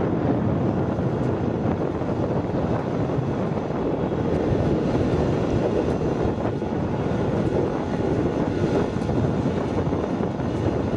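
An engine running steadily under wind noise on the microphone.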